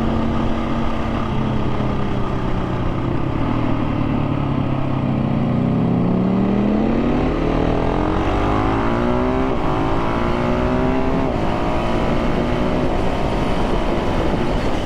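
KTM 690 SMC R's single-cylinder engine under way: the revs drop, then climb steeply in two pulls, one gear after another, under hard acceleration that lifts the front wheel while wheelie control eases the power, before settling to a steady run. Heavy wind rush runs underneath.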